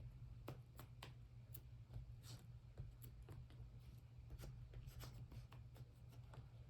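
Faint, irregular scratching and rustling of paper being rubbed and handled while a cut-out magazine piece is glued down, over a low steady hum.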